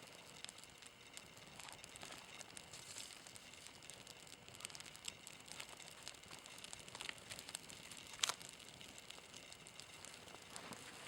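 Faint crackling and scattered pops of birch-bark tinder and kindling catching fire, with one sharper pop about eight seconds in.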